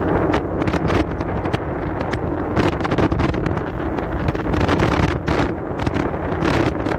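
Strong wind buffeting the microphone in gusts, over a steady low rumble.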